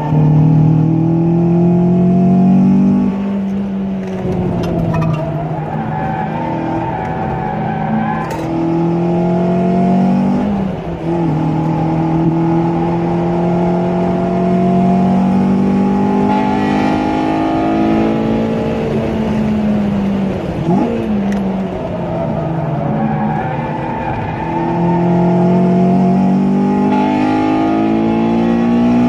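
A car's engine heard from inside the cabin while lapping a race track at high revs. The engine pitch climbs steadily and then drops back several times.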